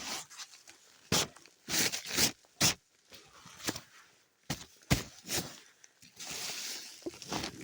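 Packed snow crunching and scraping in irregular strokes as it is worked off a shelter roof and trodden underfoot, with a longer rushing scrape about six seconds in.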